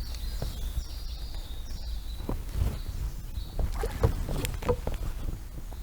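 Taut fishing line whistling under the pull of a hooked carp: a thin high whine that shifts pitch in steps and fades out about three and a half seconds in. Several short knocks and handling noises come in the second half.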